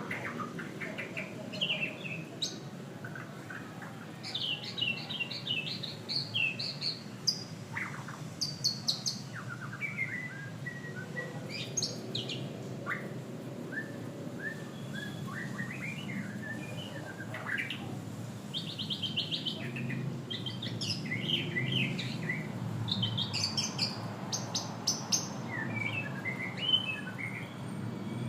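White-rumped shama singing vigorously: a long, varied song of quick chirps, trills and whistles, delivered in phrases with short pauses between them.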